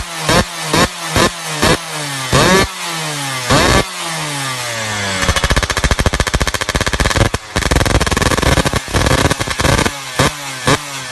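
Yamaha F1ZR two-stroke engine revved through an aftermarket racing exhaust: quick throttle blips, each falling away after the peak, then about five seconds held at high revs with a rapid rattling crackle, and short blips again near the end.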